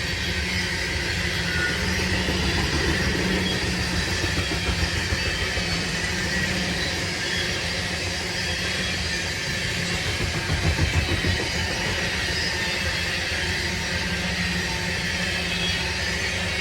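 A train rolling past with a steady, continuous rumble, a little louder for a moment about ten seconds in.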